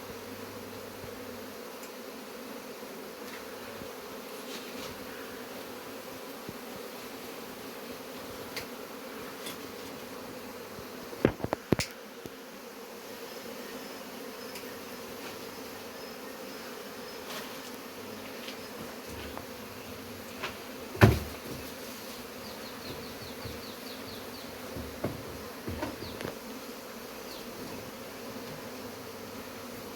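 A swarm of honeybees buzzing around their comb, a steady low hum. A few sharp knocks cut through it about a third of the way in and again, loudest, about two-thirds of the way in.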